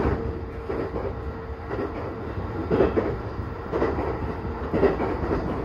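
Electric commuter train running, heard from inside the carriage: a steady low rumble of the running gear, with the wheels clacking over rail joints about once a second.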